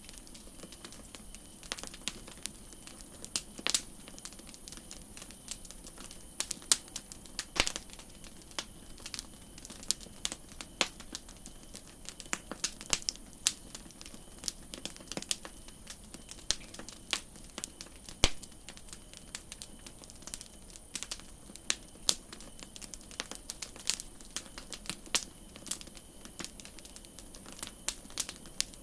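Campfire crackling: irregular sharp pops and snaps, several a second and uneven in loudness, over a faint steady high hiss.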